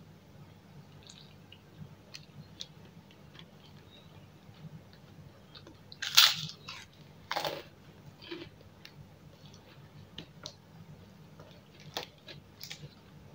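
Close-up eating sounds: quiet chewing and small mouth clicks, with two loud crunching bites into a kerupuk (puffed cracker) about six and seven and a half seconds in. A faint steady low hum runs underneath.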